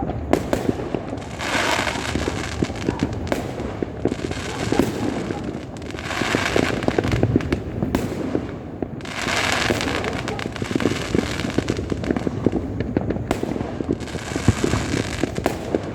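Fireworks and firecrackers going off in a dense, continuous barrage of sharp pops and cracks, with swells of crackling every few seconds.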